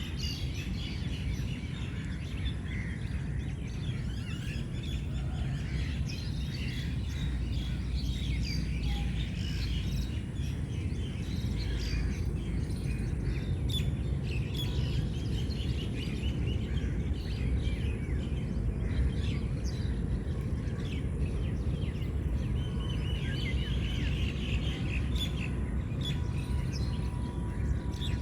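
Birds chirping, many short high calls overlapping, over a steady low background rumble.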